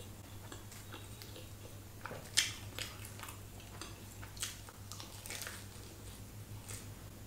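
A person chewing and biting into a cheesy pizza parcel close to the microphone: a run of sharp mouth clicks from about two seconds in. A low steady hum runs underneath.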